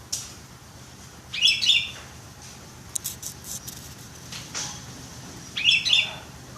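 Sooty-headed bulbul (kutilang) singing two short, loud chirping phrases about four seconds apart, with a few brief sharp notes in between, over a faint steady low hum.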